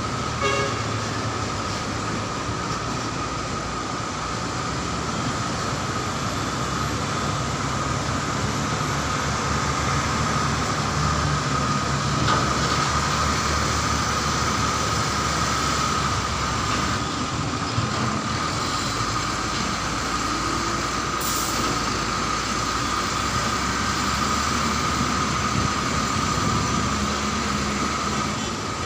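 Heavy mining dump truck running steadily: a constant engine drone with a steady high whine over it.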